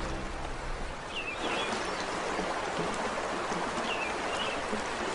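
Steady rushing of a flowing river, with a few short bird chirps now and then.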